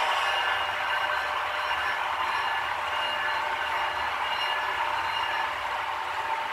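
H0-scale model freight train running steadily on the layout: an even running noise with several thin high tones held throughout.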